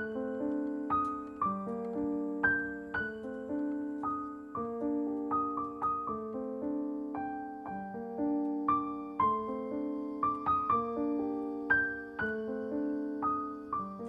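Background piano music: a melody of single struck notes, each fading away, over held lower notes.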